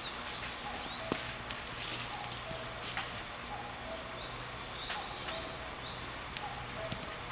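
Forest ambience: small birds chirping repeatedly in short high notes, with scattered sharp clicks throughout.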